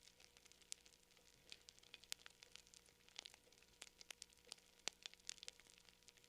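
Campfire crackling: faint, irregular pops and snaps of burning wood, several a second.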